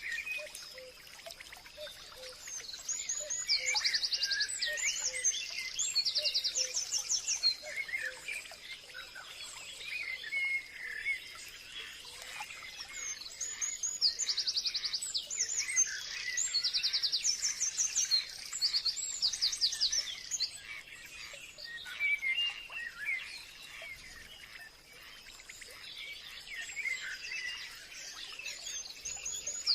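Forest birdsong: several birds calling and singing at once, with short chirps throughout and bursts of fast, high trilled phrases that come and go in waves, loudest a few seconds in and again through the middle.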